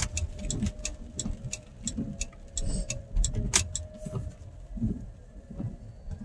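Car being driven, heard from inside the cabin: a low engine and road rumble with an even ticking about three times a second.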